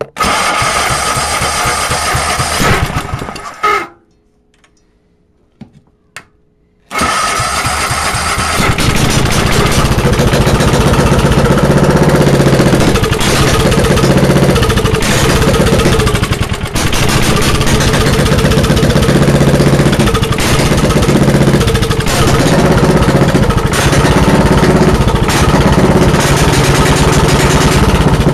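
10-horsepower Tecumseh engine with an open exhaust runs for a few seconds and stops about four seconds in. After a short pause it starts again about seven seconds in, picks up speed and loudness a couple of seconds later, and keeps running really loud.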